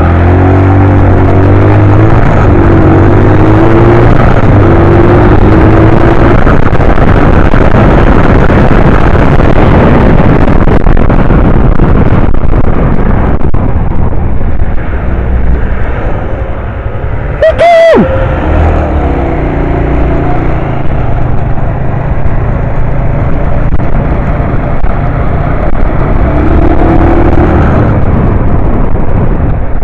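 125 cc motorbike engine pulling away and accelerating, its pitch climbing in steps through the gears, over heavy wind rush on the microphone. There is one brief sharp sound about eighteen seconds in.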